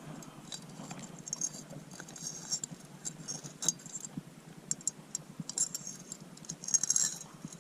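Scattered light clicks and small metallic jingles and rattles, the sound of fishing tackle and a hooked bass being handled.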